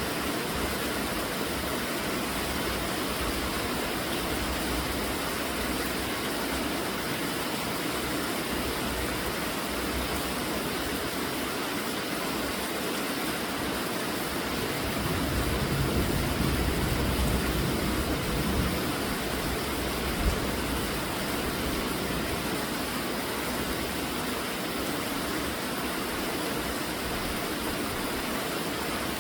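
Steady rainfall, an even hiss of falling rain. About halfway through, a low rumble swells for a few seconds and fades, and a single sharp tap follows shortly after.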